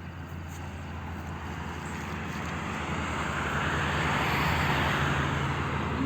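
A motor vehicle's steady hum and rushing noise, growing louder over several seconds and easing slightly near the end.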